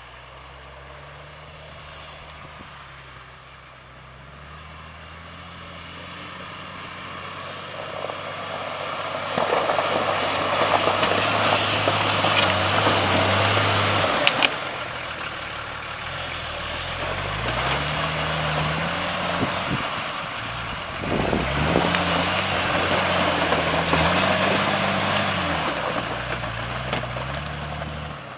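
Off-road vehicle engine revving up and down several times, its pitch rising and falling. A loud rushing hiss comes in about nine seconds in and again past the twenty-second mark.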